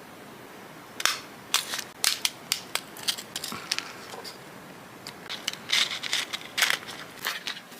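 Jewellery gift-box packaging being handled by hand: an irregular run of sharp crinkles and clicks, starting about a second in.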